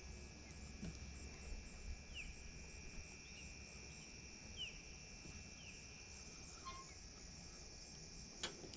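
Insects trilling steadily, with a few short, falling chirps scattered through and a sharp click near the end.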